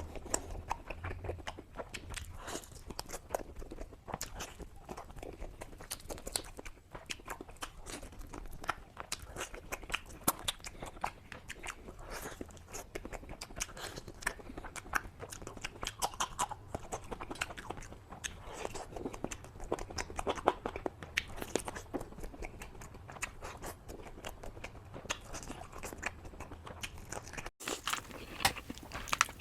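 Close-miked eating sounds: a person biting, crunching and chewing food, with many irregular crisp clicks and crackles.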